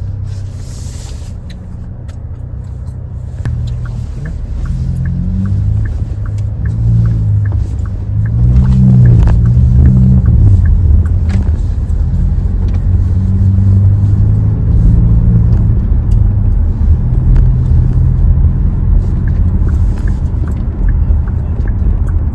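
Hyundai Tucson's engine and exhaust drone under acceleration, heard inside the cabin, the low pitch climbing and shifting as the car pulls away and the level rising to its loudest around the middle. A turn signal ticks about twice a second through much of it.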